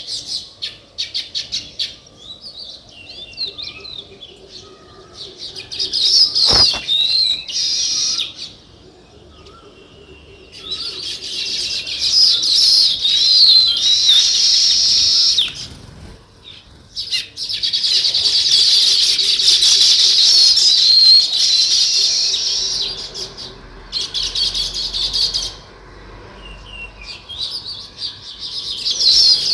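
A flock of small birds chirping together in dense, overlapping chatter that swells and dies down several times, with a single sharp click about six and a half seconds in.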